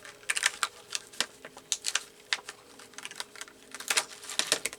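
Quick, irregular small taps and clicks of craft materials and a stamp being handled on a work table.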